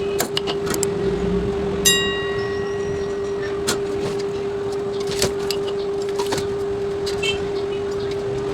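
Bench work on amplifier wiring: scattered clicks and taps of wires and hand tools being handled, and one clear metallic ring about two seconds in that fades over a second or so, over a steady hum.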